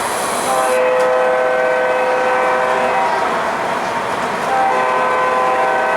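Horn from an O scale model locomotive's onboard sound system: a chord blast starting about half a second in and lasting a couple of seconds, then a second blast near the end, over the steady running noise of the train on the track.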